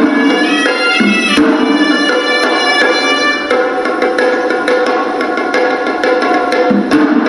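Hewisi temple ensemble playing: a horanewa shawm plays a reedy, continuous melody over rapid strokes of traditional Sri Lankan drums.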